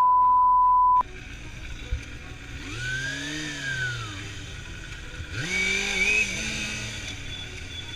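A censor bleep, a steady high beep lasting about a second, cuts off a spoken word at the start. Then an engine revs up and back down, and a second engine note rises a few seconds later and holds briefly before fading, over the steady hum of road traffic.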